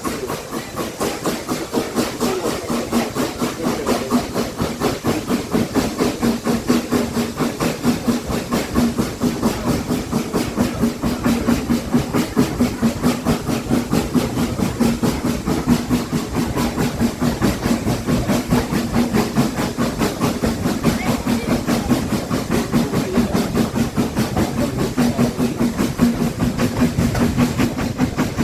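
Steam locomotive running at speed, its exhaust beats coming fast and even over a steady hiss, heard from the train it is hauling.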